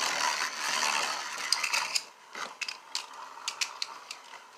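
Two Beyblade spinning tops whirring and scraping against each other in a stadium, with a dense clatter of contact that thins out after about two seconds to scattered sharp clicks as they strike each other and the stadium wall.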